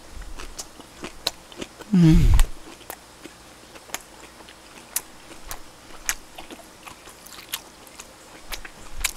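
A person chewing a pickled radish wrap close to the microphone: scattered wet clicks and crunches from the mouth. About two seconds in, a short low hum from the eater that falls in pitch.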